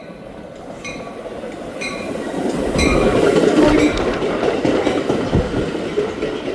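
Metra commuter train arriving at the station. Its rumble grows louder to about three seconds in, with wheels clacking and a few short high squeals from the wheels.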